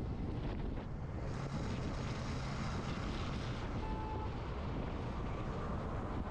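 Strong wind rushing over the microphone of a moving motorcycle, over the bike's engine and road noise. The hiss of the wind grows stronger about a second in.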